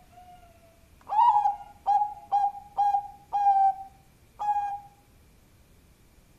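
Bangkok-type zebra dove (perkutut) cooing: a loud run of six short, clipped coos over about four seconds, each note starting sharply.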